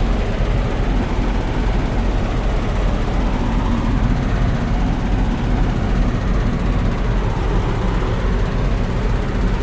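A diesel engine running at a steady idle close by, an even low drone that does not change.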